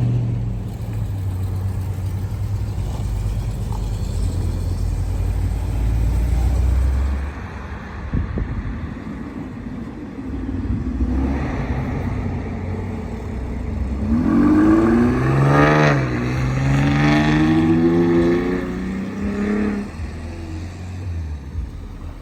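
Car engine running with a low rumble, then about two-thirds of the way in revving up in pitch, dipping briefly and climbing again before levelling off and fading near the end.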